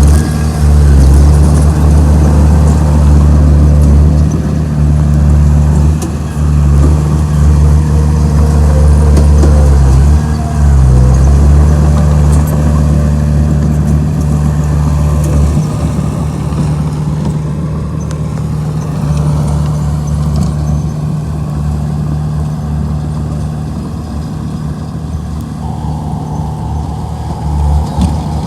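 Komatsu D31P bulldozer's diesel engine running loud and steady under working load, its note dipping briefly twice in the first half and easing off in the second half. A higher steady whine joins near the end.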